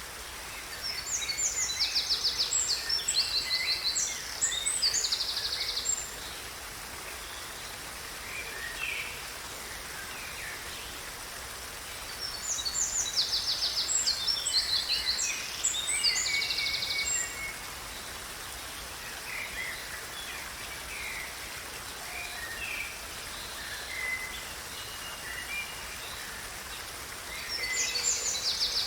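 A songbird singing: bursts of high, rapidly trilled phrases about every twelve seconds, with scattered softer chirps in between, over a steady background hiss.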